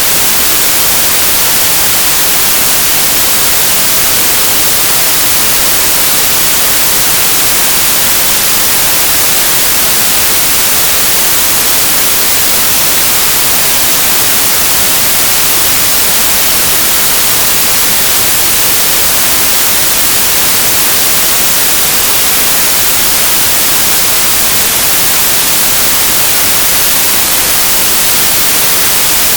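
Synthesized stereo white noise: a steady, even hiss with a flat spectrum that sounds bright and high-leaning, with no change, lines or events.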